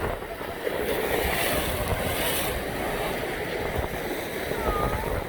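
Big ocean waves surging and breaking, a steady wash of surf with wind noise on the microphone.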